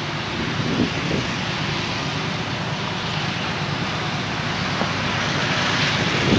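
Train approaching on the line: a steady rumbling noise that slowly grows louder.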